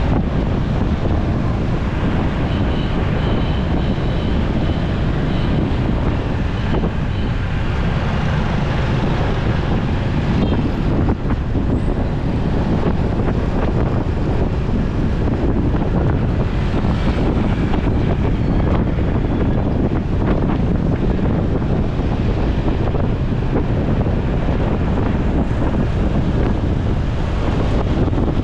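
Steady wind rush on the microphone of a moving motorcycle, with the motorcycle's engine and city traffic running underneath.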